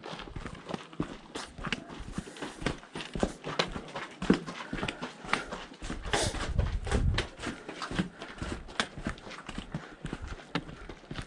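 Steps clattering on rocky ground: irregular sharp clicking strikes, a few a second, with a brief low rumble a little past the middle.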